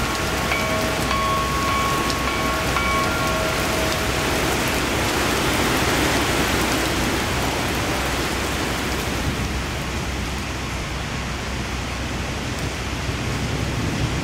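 Heavy rain pouring steadily, an even hiss with no break. A few short, faint high tones come through in the first few seconds, and the hiss dulls a little after about nine seconds.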